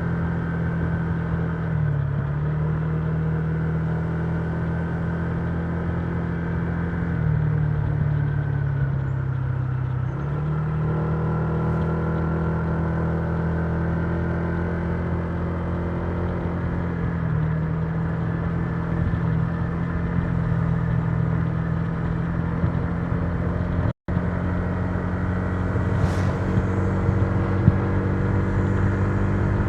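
Honda Giorno 125 scooter's single-cylinder four-stroke engine running steadily under way. Its pitch dips and recovers a few times as the throttle eases off and opens again.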